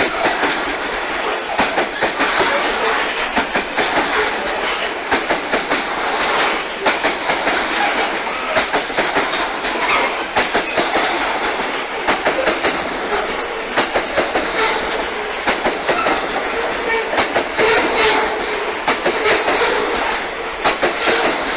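Freight train grain hopper cars rolling past close by: a continuous loud rumble of steel wheels on rail, with many sharp clacks as the wheels cross rail joints.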